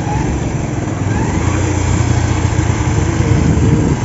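A motor vehicle's engine running as it approaches, with a steady low drone and a pitch that climbs through the second half as the engine speeds up.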